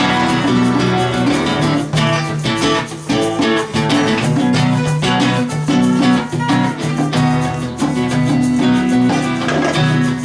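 Live band playing an instrumental break, led by a plucked, strummed guitar.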